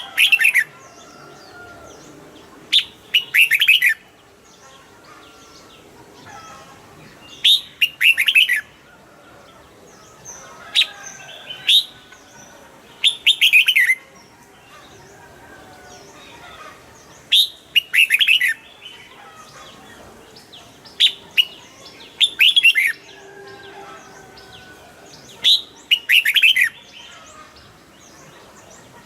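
Red-whiskered bulbul singing: about eight short, loud song phrases of quick whistled notes, one every few seconds, with fainter chirps between them.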